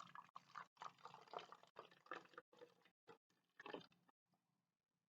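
Faint liquid being poured through a funnel into the rocket's launch tube, in short, irregular trickles and splashes that stop and start.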